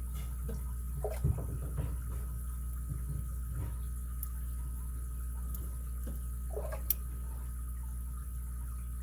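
Lock pick working the pin stack inside an ABUS 83CS/55 padlock cylinder: faint scraping and a few small sharp clicks as pins are lifted and set under light tension, over a steady low hum.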